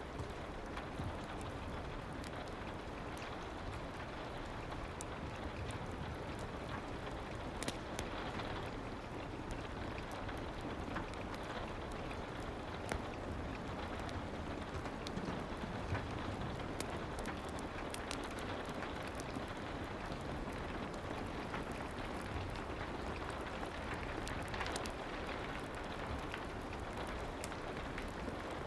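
Soft rain ambience with a fireplace: a steady hiss of rain with scattered small ticks and pops.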